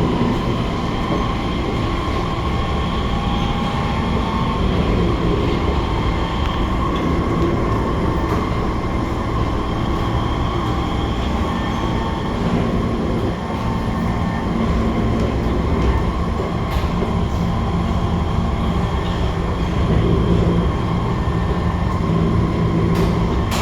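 Heard from inside a C151 MRT passenger car: the train running at speed between stations, with a steady low rumble of wheels on rail and a constant whine from the traction equipment. A few sharp clicks come near the end.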